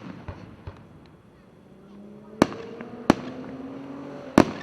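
Fireworks going off in sharp bangs and pops, three loud reports in the second half. Several long, steady, flat tones sound underneath from about two seconds in.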